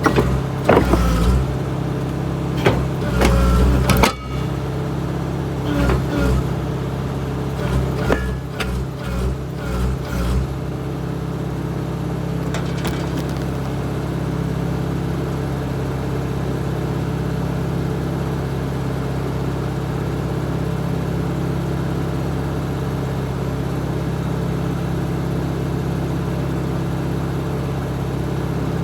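Excavator's diesel engine running steadily. Sharp metal clanks and knocks come in the first ten seconds or so as the machine works, then only the engine.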